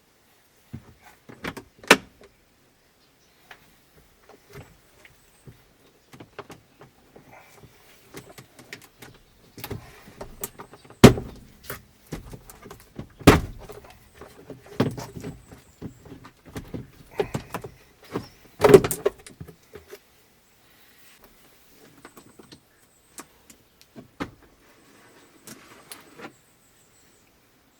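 Plastic clicks and knocks of a 2009 Kia Rio's glove box and cabin filter housing being worked by hand, with three louder sharp thumps along the way.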